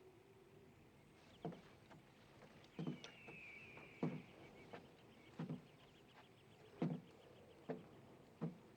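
Footsteps knocking on the wooden ties of a railroad trestle, irregular and about one a second. Faint high chirping of insects and birds sounds behind them, with a short descending call about three seconds in.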